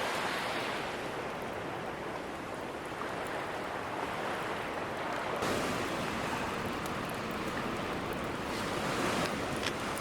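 Ocean waves breaking on a shore, a continuous surf wash that swells and ebbs, with surges about halfway through and again near the end. A few faint sharp ticks sound over it in the second half.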